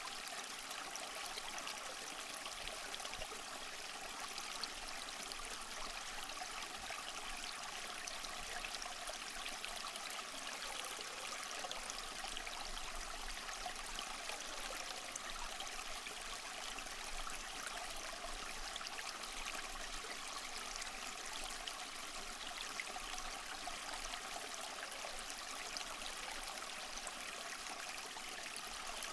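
Small waterfall splashing and trickling steadily over mossy rocks, an even rushing hiss with fine splashy detail.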